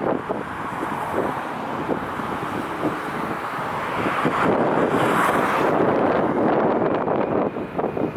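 Strong gusty wind buffeting the microphone, a rough rushing noise that swells louder from about four seconds in and eases near the end.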